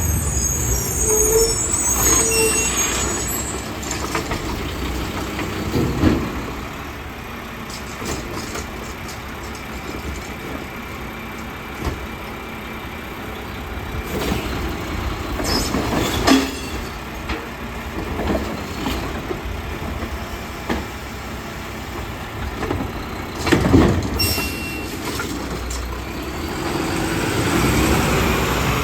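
Garbage truck working: its diesel engine running steadily, a hiss of air brakes near the start, and loud bangs about six, sixteen and twenty-four seconds in, with the engine building up near the end.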